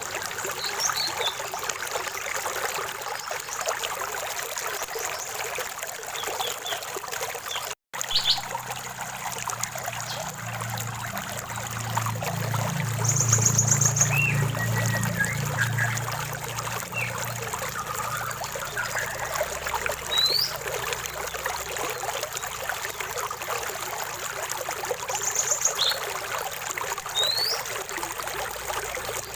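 Stream water trickling and splashing steadily, with small birds calling over it in short rising whistles and a couple of quick trills. The sound cuts out for an instant about eight seconds in, and a low rumble swells and fades soon after.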